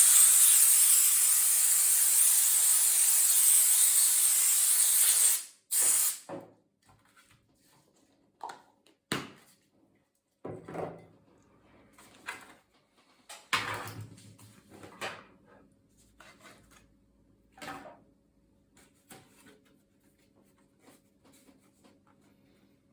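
A long blast of compressed air hissing steadily for about five seconds, then cutting off, as dust is blown out during cleaning. Scattered light clicks and knocks follow.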